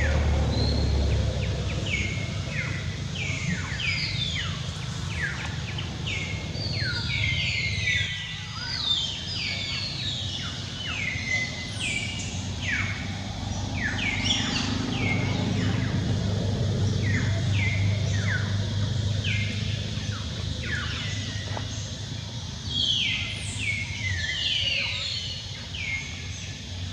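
Several birds chirping outdoors: many short, falling chirps, several a second, over a steady low background rumble.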